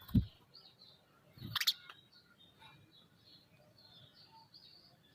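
Faint bird chirping in the background, with a loud low thump just after the start and a brief louder knock about a second and a half in.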